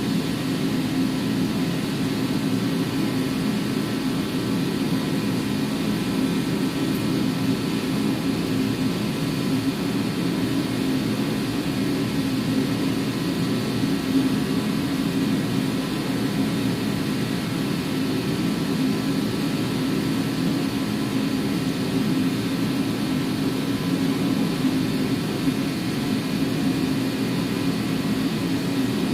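A steady, unchanging mechanical drone with no starts, stops or changes in level.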